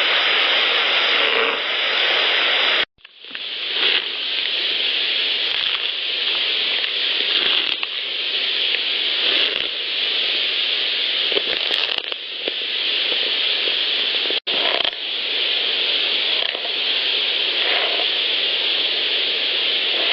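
Heavily boosted outdoor field-recorder audio: a loud steady hiss with faint scratching sounds in it, cut off abruptly about three seconds in and again in the middle where one clip is spliced to the next. The recordist presents the scratching as a sound made by a Sasquatch.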